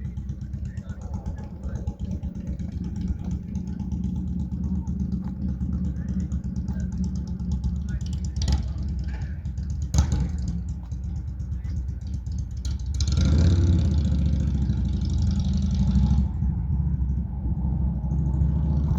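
A car engine running steadily at low revs, with a louder rush of a vehicle passing from about 13 to 16 seconds in and a couple of sharp knocks before it.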